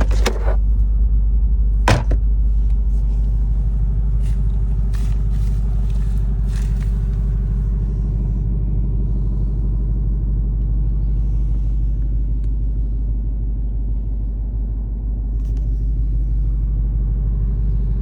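A motor vehicle's engine running steadily with a deep, even rumble, with a sharp click about two seconds in and a few lighter ticks.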